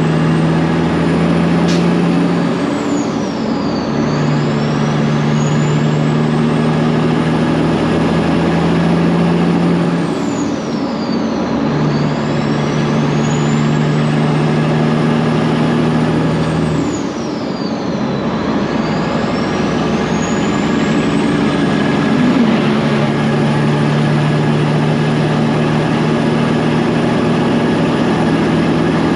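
Straight-piped Peterbilt 389 diesel semi running under load, a steady exhaust note that breaks off and resumes about three times as it goes through the gears. At each break a high turbo whistle falls away and climbs back up.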